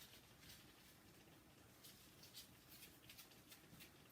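Near silence: room tone with faint, scattered small ticks.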